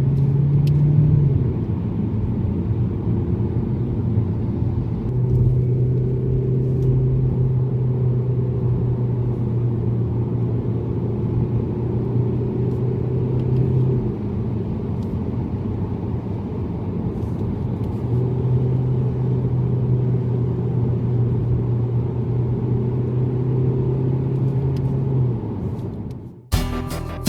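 Mazda3 engine and road noise while driving: a steady low drone in which the engine's tone comes up strongly for two long stretches of several seconds each, as if under steady throttle, and eases in between. Music cuts in near the end.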